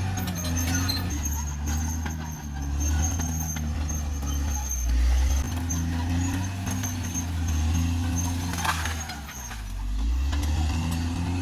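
CAT D6R XL bulldozer's diesel engine running under load, its pitch rising and falling as the work changes, with a steady high whine above it. A single sharp crack comes near the end.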